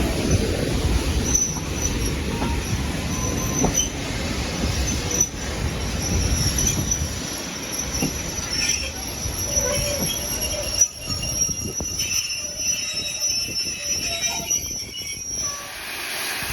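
Train wheels squealing against the rails in a thin, high, wavering tone over the low rumble of the wheels on the track. The rumble eases about halfway through, and the squeal stops shortly before the end.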